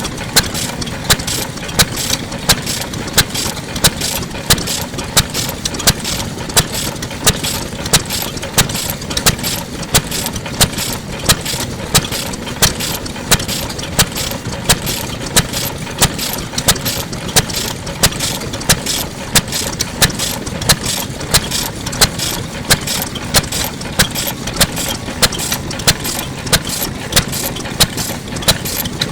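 Kubota Type F 2.5 hp single-cylinder stationary engine running steadily, a loud regular beat about once every two-thirds of a second with mechanical clicking and clatter between the beats.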